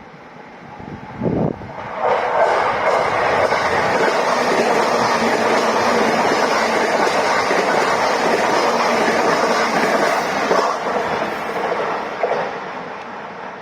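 Electric train running past at speed: the noise builds, holds loud and steady for about ten seconds, then fades away. There is a short, louder sound about a second in.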